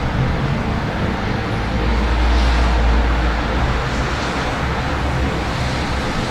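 City traffic in the rain: a steady low rumble of passing vehicles under an even hiss of rain and wet road, swelling briefly about two seconds in.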